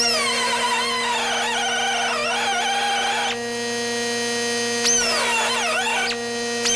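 Power drill cutting into steel, its bit squealing against the metal with a wavering pitch, over the steady hum of the drill motor. Sharp high squeals fall away in pitch as the bit bites, once at the start and again about five seconds in.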